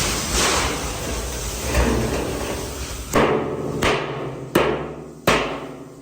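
Hammer blows on metal. The first half is rough workshop clatter; from about halfway on, regular sharp strikes with a short ring come about one every 0.7 seconds.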